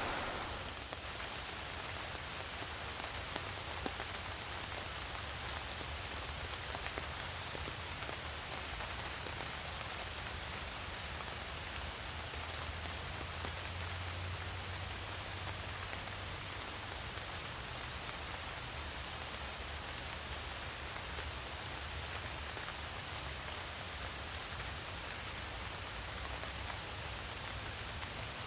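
Steady rain falling in a forest: an even, constant hiss with a few faint drop ticks.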